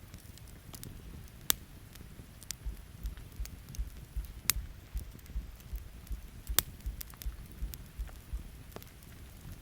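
Wood campfire crackling, with sharp pops about 1.5, 4.5 and 6.5 seconds in, over a steady rain hiss. From about 2.5 seconds a run of low thumps, roughly three a second, goes on until near the end.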